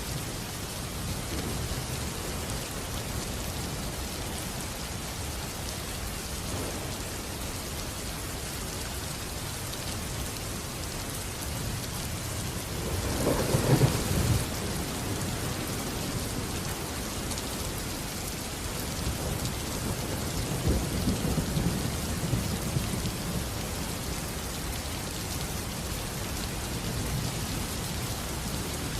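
Steady heavy rain falling, with a thunderclap about halfway through and a longer rumble of thunder a few seconds later.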